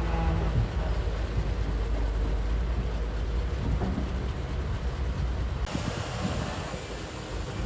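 Heavy earthmoving machinery working, with a steady low diesel-engine rumble. The sound turns abruptly brighter and hissier near the end.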